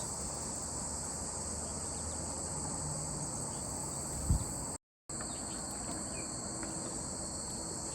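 Steady high-pitched chorus of insects. There is a short knock about four seconds in, and the sound drops out completely for a moment just before five seconds.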